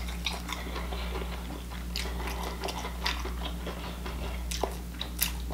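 A person chewing a mouthful of sesame-seed burger up close, with scattered wet clicks and smacks, over a low steady hum.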